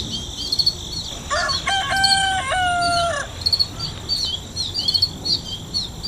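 A rooster crows once, a long crow starting about a second in and lasting about two seconds, over quick repeated chirping of small birds.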